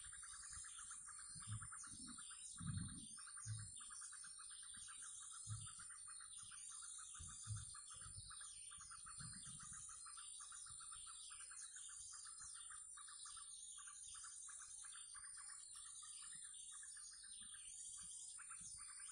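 Several birds chirping, with many short calls overlapping, over a steady fast trill. A few low thumps come in the first eight seconds.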